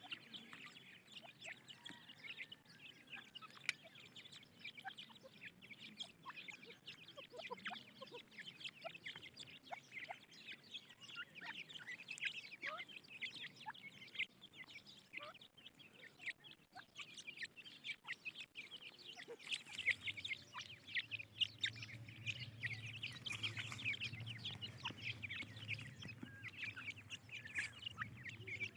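A brood of francolin chicks peeping continuously: many short, high chirps overlapping. A steady low hum joins about twenty seconds in.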